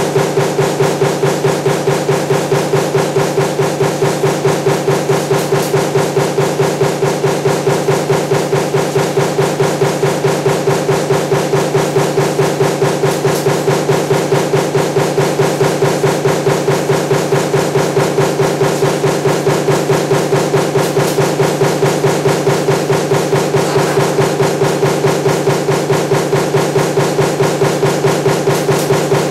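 Power press running continuously with a stamping die for table fan motor parts, making a fast, even rhythm of strokes over a steady machine hum.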